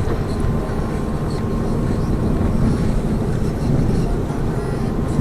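Cabin noise of a Lada Vesta Cross with its 1.8-litre engine under way: a steady low rumble of engine and road noise heard from inside the car.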